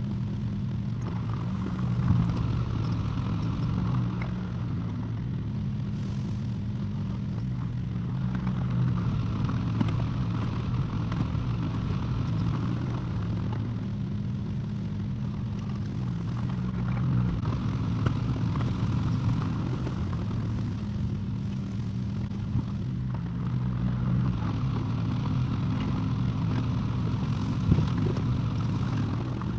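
Excavator engine running steadily, its drone swelling and easing as the load changes, with a few sharp knocks from the machine at work.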